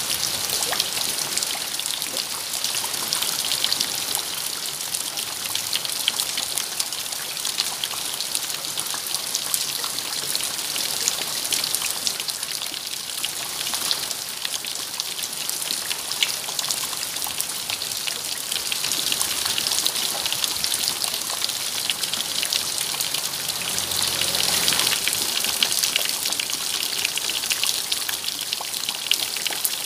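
Steady rain, a dense patter of raindrops with a constant hiss.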